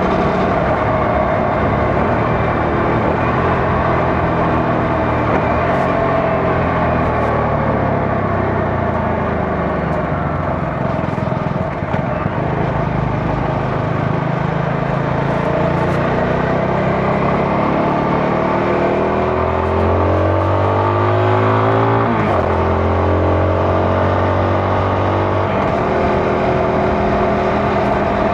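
CFMoto 250NK's single-cylinder engine and exhaust under way. The engine note falls as the bike slows, then rises as it accelerates again, with a quick break in the note about 22 seconds in, like a gear change, before it holds steady.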